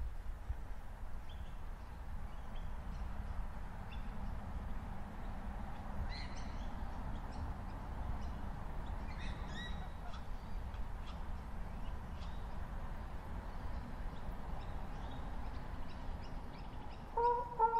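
Outdoor park ambience: small birds chirping here and there over a steady low rumble. Near the end a loud run of falling, horn-like tones starts.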